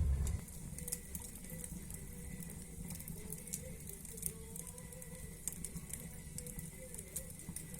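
Wood fire crackling in a fireplace, with scattered sharp pops and a faint wavering whistle. A low rumble cuts off just after the start.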